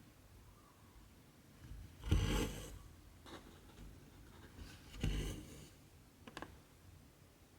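Cotton embroidery thread pulled through cross-stitch fabric with a needle: two short swishes about three seconds apart, then a few small ticks.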